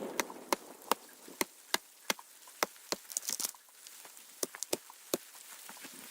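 A series of irregularly spaced sharp taps and clicks, about a dozen-and-a-half in all, with a quick cluster of brighter clicks around the middle.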